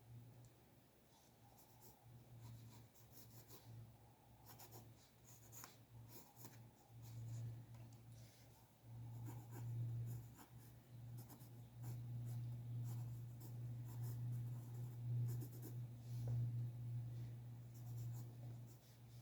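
Drawing strokes scratching on paper, short and irregular, over a steady low hum.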